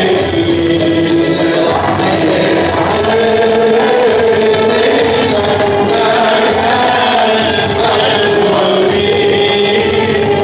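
Male voices singing an Arabic Christian hymn in long held notes.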